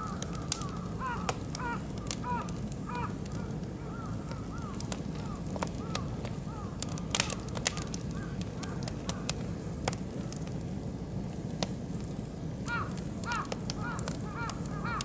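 Oak and beech wood fire crackling in a barbecue grill, with sharp pops scattered throughout. A bird calls in quick series of short rising-and-falling notes at the start and again near the end.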